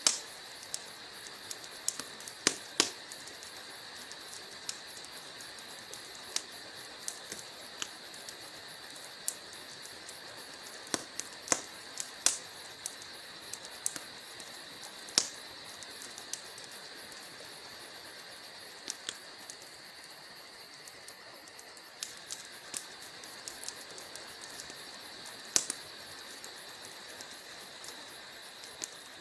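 Wood logs burning in a fireplace: a steady hiss of fire with irregular sharp crackles and pops, a handful of them noticeably louder snaps.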